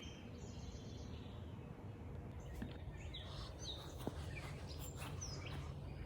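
Faint outdoor ambience with a few brief, high, downward-sweeping bird chirps in the second half.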